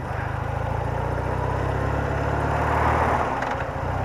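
BMW R80RT's air-cooled flat-twin engine running steadily under way, with wind and road noise over it; the engine note breaks briefly about three and a half seconds in.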